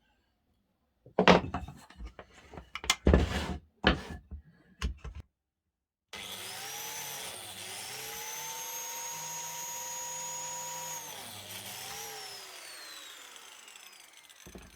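Several knocks and clicks as the Dewalt biscuit jointer is handled, then its motor starts about six seconds in, runs steadily with a high whine for about five seconds, and is switched off, the whine falling away as the blade spins down. This is a test run after the blade has been sharpened and the slide freed.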